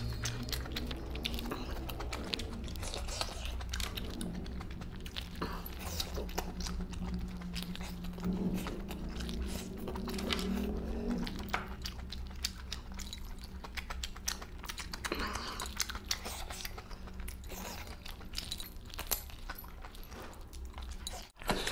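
A man chewing and biting meat curry eaten by hand, close to the microphone: wet mouth and finger sounds with frequent small clicks and crunches, over a low steady hum.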